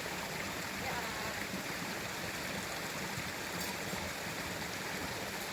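Steady rush of running water, at an even level throughout.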